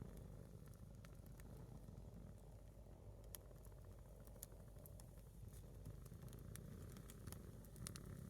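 A single log of firewood burning in a small campfire, giving scattered faint crackles and pops, several close together near the end, over a low steady background noise.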